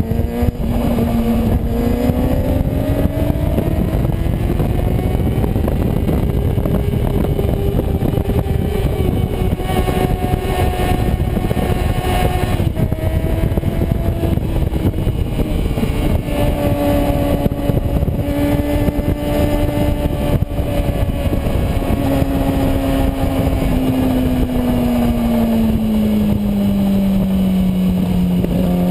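Kawasaki Ninja ZX-6R inline-four sportbike engine running at road speed under heavy wind rush on the onboard microphone. The engine pitch climbs over the first few seconds, holds, breaks off briefly about twelve seconds in, and sinks slowly near the end.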